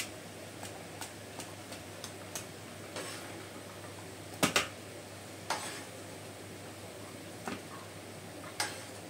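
Chicken nuggets shallow-frying in oil in a non-stick pan: a steady sizzle with scattered sharp pops of spitting oil. About four and a half seconds in, metal tongs clack twice against the pan as they turn a nugget.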